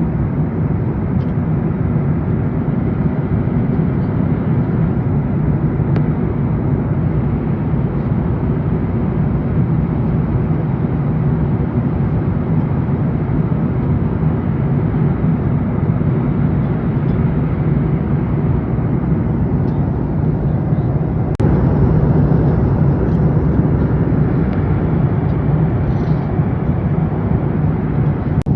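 Steady cabin noise of a Boeing 737 MAX 8 in flight: the even rush of airflow and the CFM LEAP-1B engines, heaviest in the low range. It gets a little louder about three quarters of the way through.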